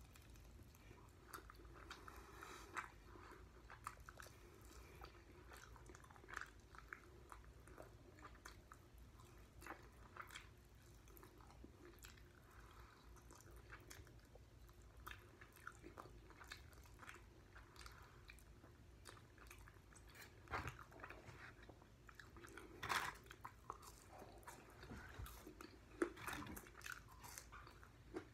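Faint biting and chewing of chicken wings: irregular soft clicks and crunches, with a few sharper, louder bites in the last third.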